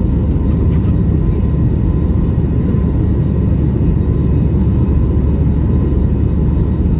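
Airbus A321neo jet engines heard from inside the passenger cabin: a loud, steady rumble with a thin steady tone above it.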